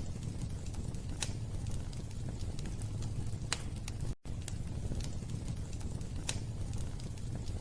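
Wood fire burning in a fireplace: a steady low rumble of flames with scattered sharp crackling pops. The sound cuts out for an instant about four seconds in.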